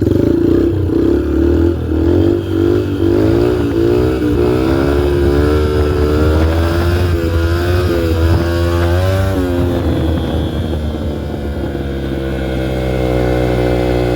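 2003 Yamaha TTR125L dirt bike's single-cylinder four-stroke engine revving hard for a wheelie attempt, its pitch swinging up and down again and again, then dropping about ten seconds in to a steadier, lower running note that creeps up again near the end.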